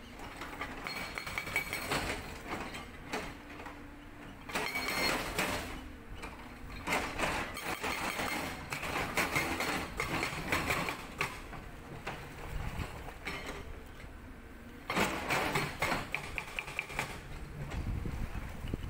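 Sangdo SD220 hydraulic breaker on a Caterpillar 320D excavator hammering rock in several bursts of rapid blows, with the excavator's diesel engine running steadily between them.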